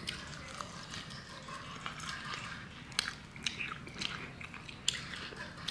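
A person chewing food close to the microphone, with scattered irregular mouth clicks, the sharpest about three seconds in and again near the end.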